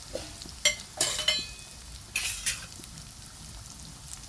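Chicken pieces frying in groundnut oil with spice powders, a steady sizzle, with a spoon stirring and scraping against the pan a few times.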